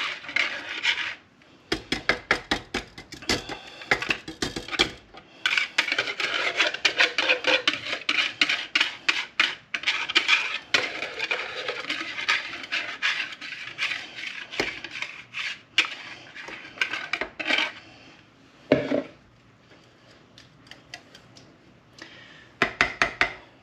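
A utensil scraping and clinking rapidly against a dish while a sauce is mixed and spread over chicken. One louder knock comes about three-quarters of the way through, followed by a few seconds of quiet, then a few more clinks near the end.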